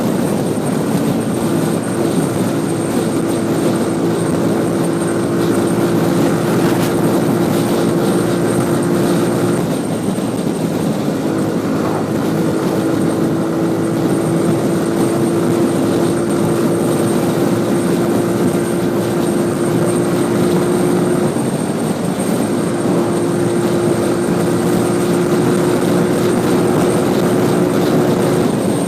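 Motorcycle engine running steadily while riding, with wind and road noise. The engine note breaks off briefly twice, about ten seconds in and again about twenty-one seconds in, then picks up again.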